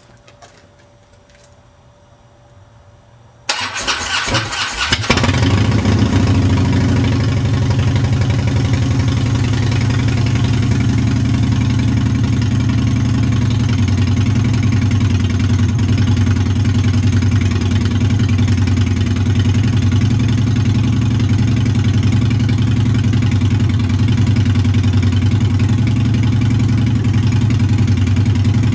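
Harley-Davidson Dyna Low Rider's Twin Cam V-twin with a Supertrapp Mean Mothers II exhaust being started. The starter cranks about three and a half seconds in, the engine catches within about a second and a half, then settles into a steady, loud idle.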